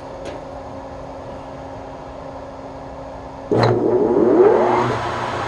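Steady electrical hum, then about three and a half seconds in a Webb Whacheon metal lathe's motor starts with a sudden loud onset. A whine rises as the spindle comes up to speed in its 510 RPM gear, then settles into steady running.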